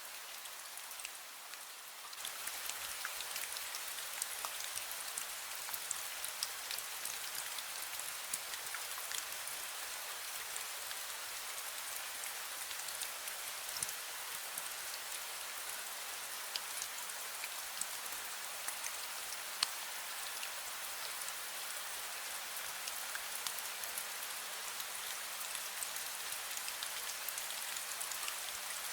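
Fine misty rain falling steadily: a soft even hiss full of many small drop taps, with a few sharper drips. It grows a little louder about two seconds in.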